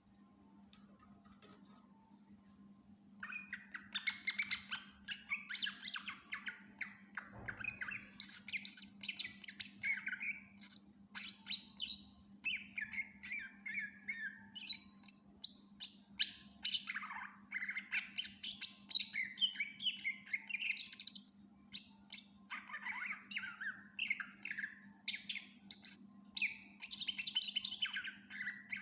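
Cucak ijo (green leafbird) singing vigorously, a fast unbroken string of varied chirps, trills and whistled phrases, including mimicked calls, beginning about three seconds in. A steady low electrical hum runs underneath.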